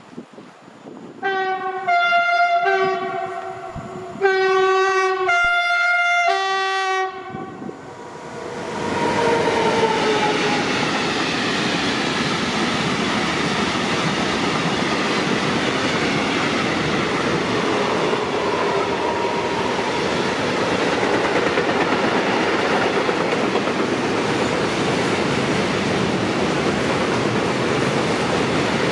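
Train horn sounding two blasts, each alternating between a low and a high note, the first about a second in and the second about four seconds in. From about eight seconds a train passes close by, a loud, steady rush of wheels on rail with a rhythmic clickety-clack that holds to the end.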